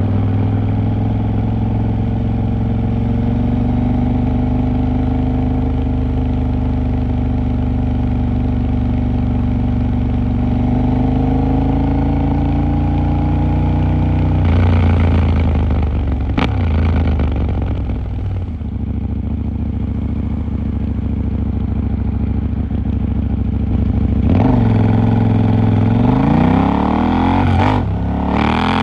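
KTM 890 Duke R's parallel-twin engine being ridden through the city: it holds a steady pitch for about fourteen seconds, rising slowly. The revs then change briefly and drop back, and they climb sharply over the last few seconds.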